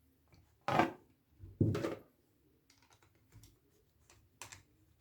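A screwdriver turning screws into metal capacitor brackets: two short scraping clatters about a second apart, then scattered light clicks of tool and hardware near the end.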